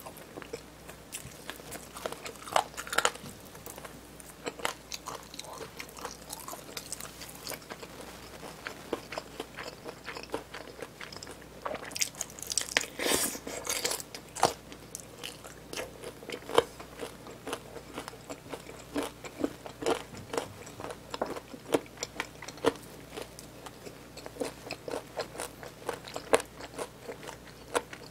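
Close-miked biting and chewing of BHC Bburinkle fried chicken drumsticks: crisp crust crunching and wet chewing in many small clicks, with a louder run of crunching about halfway through.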